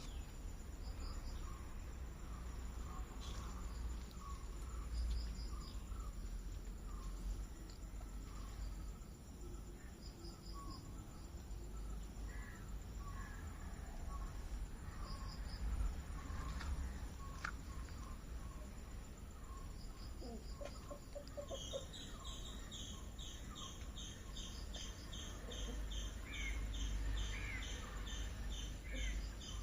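Outdoor ambience of birds chirping and insects calling: short repeated chirps throughout, joined about two-thirds of the way through by a fast, high, even run of chirps, over a steady low rumble.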